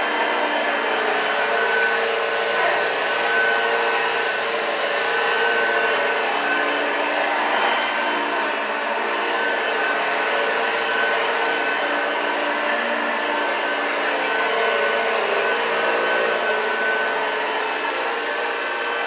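1986 Hoover Junior U1206 upright vacuum cleaner running steadily, its motor giving a constant hum with a high whine over it.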